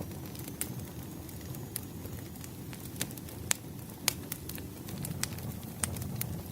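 Firewood fire burning, with sharp crackles and pops every second or so over a low steady rustle of the flames.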